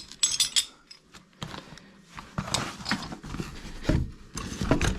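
Irregular clicks, clinks and short scrapes of metal plumbing parts and tools being handled during work on a tap fitting.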